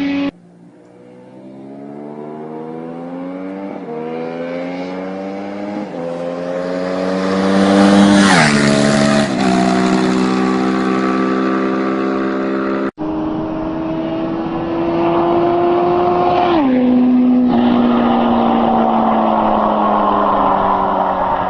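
Superbike engine accelerating hard through the gears: the pitch climbs steadily, then drops sharply at each upshift, about three times in the first half. After an abrupt cut, another high-revving run shifts up twice more, then the pitch slowly falls.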